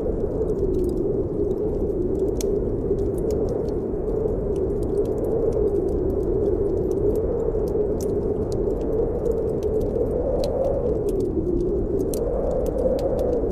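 Snowstorm wind howling steadily, its pitch slowly rising and falling, over a wood fire crackling with frequent small sharp pops.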